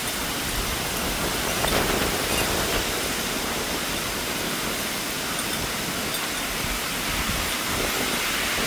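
Heavy rain pouring steadily in a thunderstorm, a dense even hiss with a slight swell about two seconds in.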